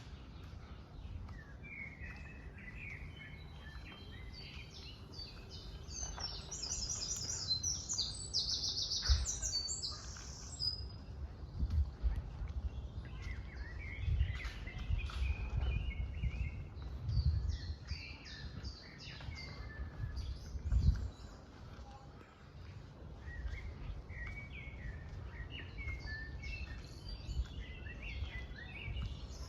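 Small songbirds singing and chirping, with a fast bright trill about a quarter of the way in, over a low background rumble.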